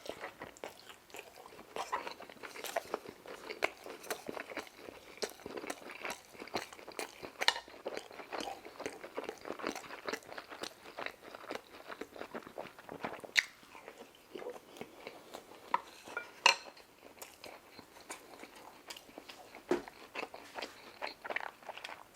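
Close-miked chewing and crunching of fried food, a dense run of irregular crunches and mouth clicks, with a few sharper, louder crunches now and then.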